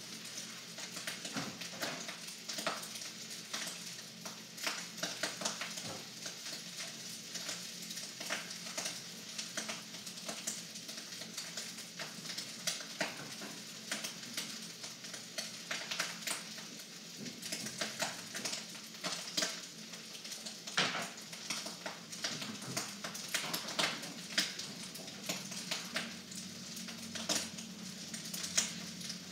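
Duck fried rice frying in a hot wok: a steady sizzle with frequent small crackles and pops.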